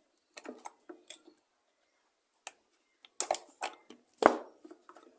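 Short, scattered clicks and rubbing noises of hands pulling the rubber fuel lines off a leaf blower's Walbro carburettor, with a louder knock about four seconds in.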